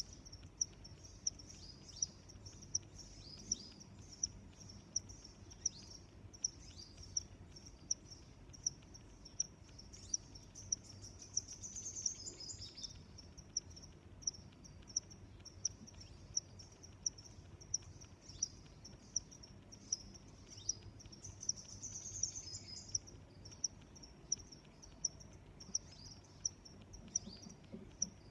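Crickets chirping in a steady rhythm, about one and a half high-pitched chirps a second. Twice, near the middle and about three quarters of the way through, a louder, longer chirring rises over them for a second or two.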